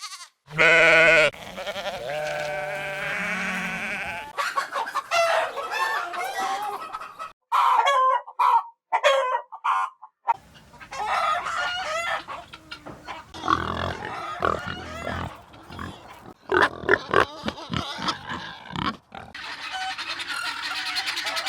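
A series of animal calls, several different pitched cries following one another with short pauses between.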